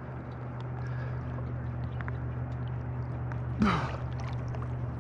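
Jet ski engine idling with a steady low drone. About three and a half seconds in, a man gives a short breathy sigh that falls in pitch.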